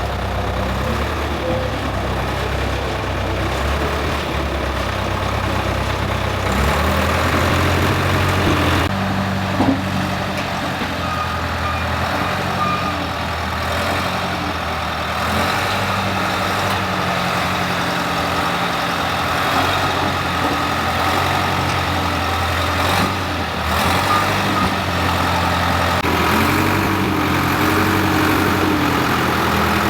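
Caterpillar D4C bulldozer's diesel engine running after its crankshaft and bearing overhaul. It runs steadily, with its pitch stepping up about seven seconds in and shifting a few more times as the machine is worked.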